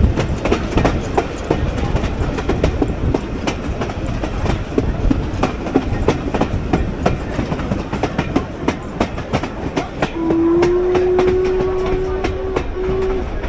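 Heritage passenger train running, heard from an open carriage window: a steady rumble with wheels clicking irregularly over the rail joints. About ten seconds in, the locomotive sounds one long blast, steady in pitch, with a short break near its end.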